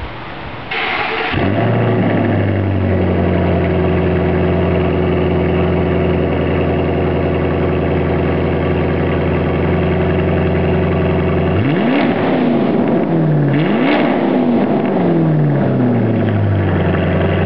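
Cold start of a 2008 Mustang GT's 4.6-litre three-valve V8 through muffler-delete pipes. The starter cranks briefly, the engine catches and settles into a steady fast idle. About twelve seconds in it is revved two or three times, each rev rising and falling, before dropping back to idle.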